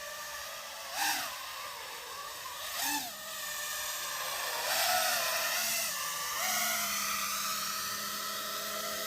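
FPV drone's motors and propellers whining, the pitch swooping up with short throttle bursts about one and three seconds in, then running higher and louder with small rises and dips.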